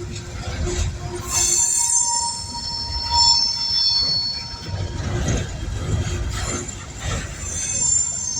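Loaded coal train's cars rolling past with a low rumble, their wheels squealing high and shrill from about a second and a half in, fading, then squealing again near the end.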